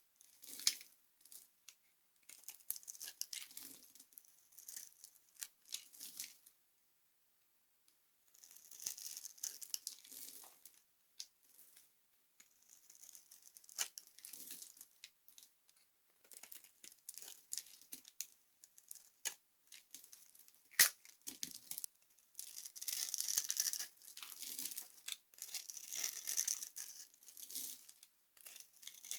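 Dry soap being crushed and crumbled: brittle crackling crunches in bursts every second or two, with a short pause and one sharp snap about two-thirds of the way in.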